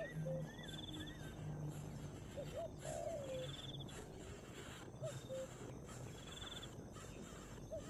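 Several wild birds calling: short repeated chirps and a few brief high trills, over a low hum that comes and goes.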